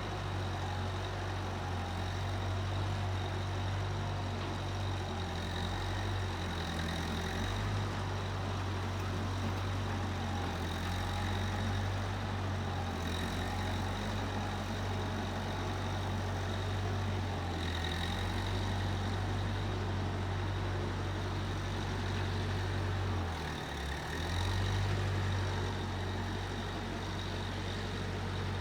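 Case 1530 Uni-Loader skid steer engine running steadily, with a faint high whine over it. Its pitch shifts briefly a few times, with a short sharp dip near the end before it picks back up.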